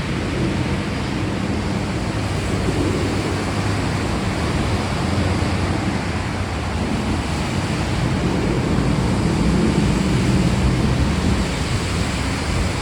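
Steady heavy rain: a dense, even hiss with a low rumble beneath it that swells and fades every few seconds.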